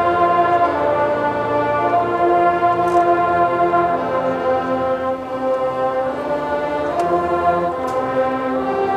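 Marching band brass playing a slow, sustained chorale, held chords changing every second or two.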